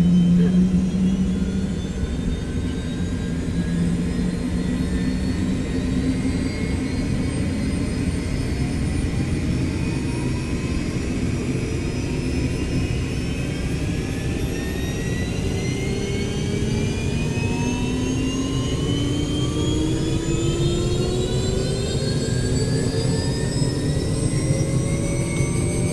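Robinson R66 helicopter's Rolls-Royce RR300 turbine engine running up on the ground, its whine and rotor hum rising slowly and steadily in pitch as it comes up to speed.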